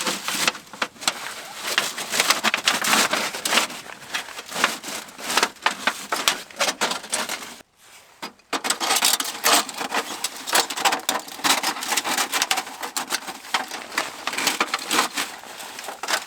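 Dense, irregular crackling and snapping of wood, broken by a short gap about halfway through.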